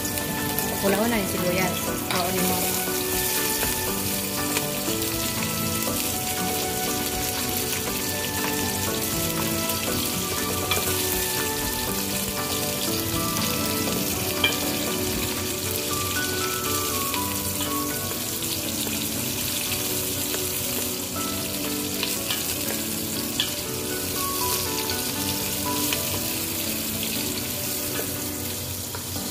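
Sliced onions frying in oil in a large aluminium pot, a steady sizzle, stirred now and then with a spatula. Background music plays over it.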